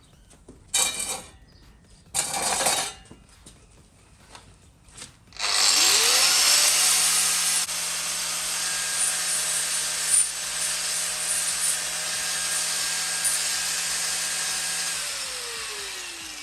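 Angle grinder working sheet metal: two short bursts, then from about five seconds in the motor spins up and grinds steadily for about ten seconds before winding down near the end.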